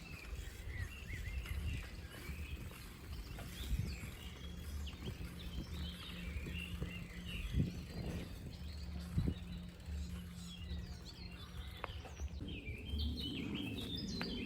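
Several songbirds chirping and singing over a steady low rumble, with a couple of brief knocks.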